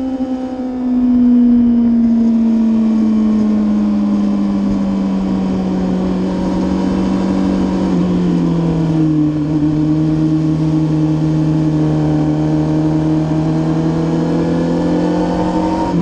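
Superbike racing motorcycle engine slowing, its pitch falling steadily, with two small steps down about eight and nine seconds in, then running steadily at a low, even pitch near the end.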